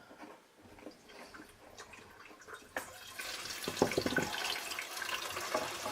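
Gasoline poured into the empty fuel tank of a 1964 Honda Benly, starting just after a click about three seconds in and running on as a steady splashing pour. It is a small test fill to check the newly sealed petcock fitting for leaks.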